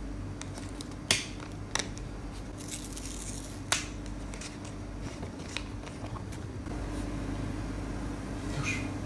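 Several sharp clicks and knocks of objects being handled, with a short rustle in between, over a steady low hum.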